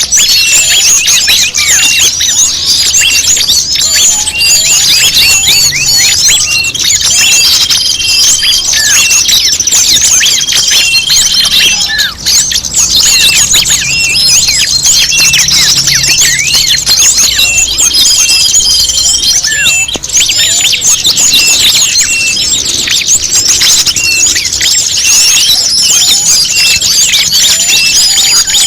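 A dense, continuous chorus of many small songbirds' chirps and twitters layered together, with a few longer whistled notes held at one pitch. It is a bird-lure recording meant to draw in small birds.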